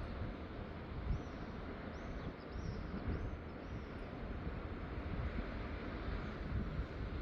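Wind buffeting the microphone over a steady outdoor hiss, with a few short, high bird chirps between about one and three and a half seconds in.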